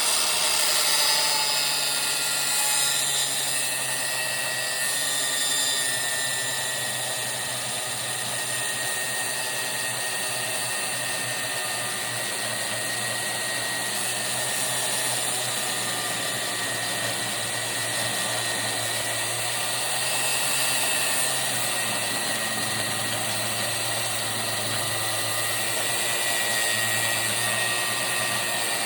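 Angle grinder with a cutting disc running steadily as it cuts through metal, a continuous whine with a high squealing tone.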